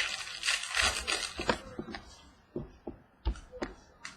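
Trading cards and packs being handled: a rustling, sliding noise for about a second and a half, then several separate light clicks and taps.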